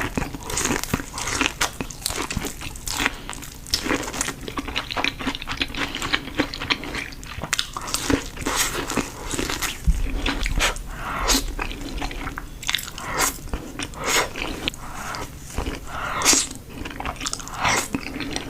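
Close eating sounds of a crispy fried-chicken sandwich stuffed with Buldak noodles: a steady run of sharp, irregular crunches from bites, with chewing between them.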